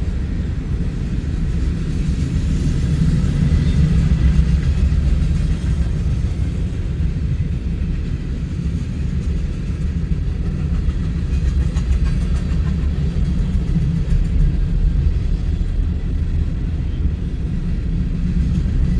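Freight cars of a Union Pacific manifest train passing at speed: a steady low rumble of wheels on rail.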